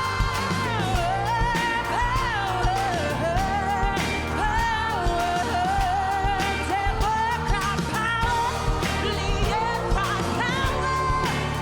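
A pop song performed live: a singer holds long, wavering notes over a band with a steady drum beat.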